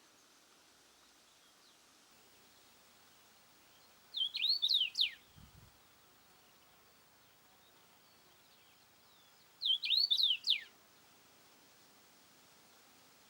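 A songbird sings two short phrases of quick, falling whistled notes, about five seconds apart, over a faint steady outdoor hiss.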